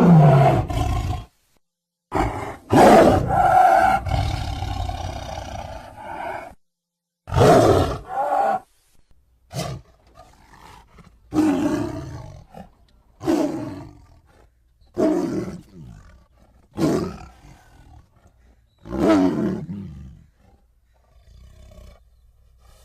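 Big-cat roar sound effects voicing a saber-toothed cat (Smilodon). A roar comes first, then a longer, drawn-out roar and a shorter one. After that comes a string of five shorter roars about two seconds apart, each falling in pitch, dying away near the end.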